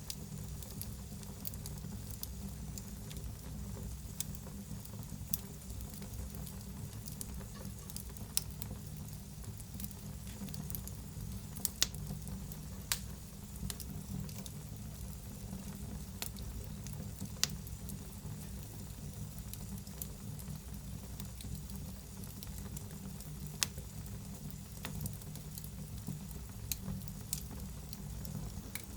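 Wood fire in a fireplace burning with a steady low rumble and hiss, and sharp crackles and pops scattered irregularly through it, a few of them much louder than the rest.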